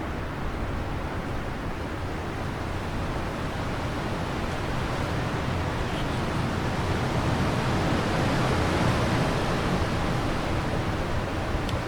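Wind blowing steadily, swelling a little louder around eight to nine seconds in.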